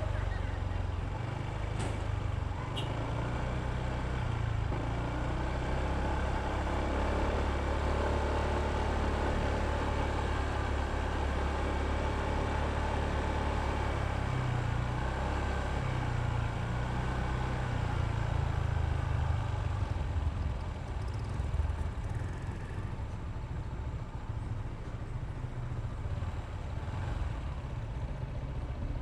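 Honda ADV 160 scooter's single-cylinder engine running under the rider, with a steady low engine note that shifts in pitch about halfway through, over road and traffic noise.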